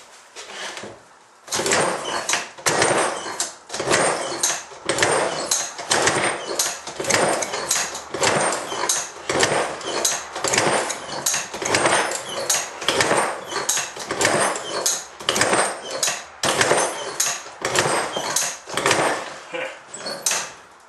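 Iron Horse small engine being cranked over again and again without running, a rough, even chuffing about twice a second. It only pops now and then, which the owner puts down to not getting any gas.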